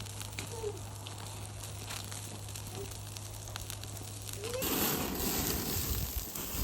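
Barbecue fire crackling with scattered pops. About four and a half seconds in, an abrupt cut brings a louder, steady sizzling hiss, and a low thump comes near the end.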